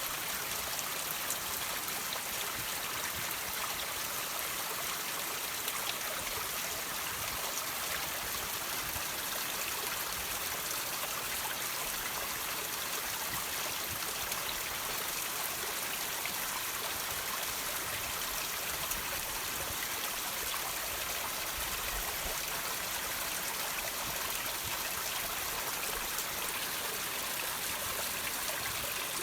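Water trickling and dripping off rocks: a steady hiss of running water with scattered small drip ticks through it.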